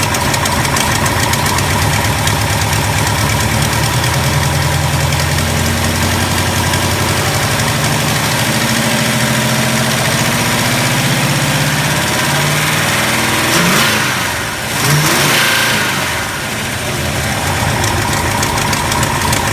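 V8 engine of a 1970 Dodge Charger, fitted with a Lunati aftermarket camshaft, idling steadily while its manifold vacuum is read. About fourteen seconds in, the engine sound briefly dips and then swells again.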